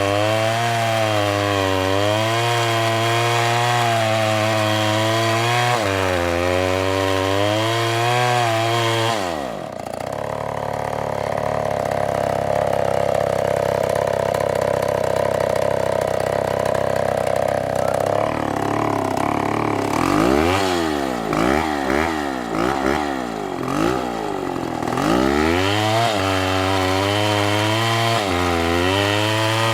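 STIHL chainsaw cutting through a palm trunk, its engine pitch wavering under load. About ten seconds in it shifts to a steadier, higher note, then revs up and down several times before settling back into cutting near the end.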